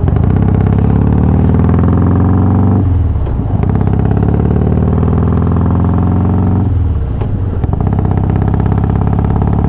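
Harley-Davidson Twin Cam V-twin engine, fitted with Feuling 525 camshafts and hydraulic cam chain tensioners, running under power with its revs climbing. The engine note breaks briefly twice, about three and seven seconds in, then climbs again.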